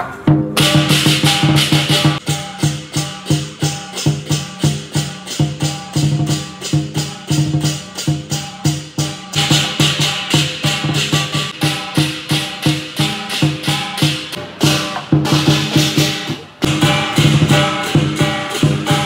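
Chinese lion dance percussion: drum, cymbals and gong beating a fast, steady rhythm, with a short break about sixteen seconds in.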